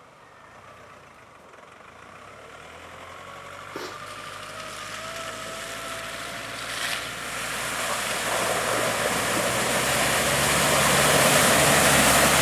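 A 4WD vehicle's engine running with tyre and road noise, growing steadily louder, with a couple of light knocks along the way.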